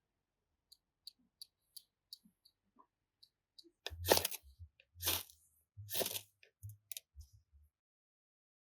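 Crunching footsteps in snow: three heavy steps about a second apart, each with a low thud, after a scatter of faint clicks.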